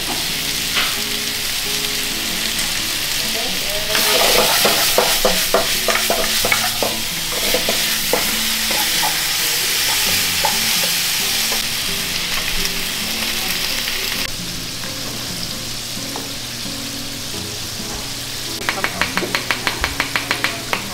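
Food sizzling in hot oil, a steady hiss, with a cluster of knocks and scrapes from about four to eight seconds in and a fast run of about ten sharp knocks near the end. About two-thirds through, the hiss thins and a steady low hum comes in.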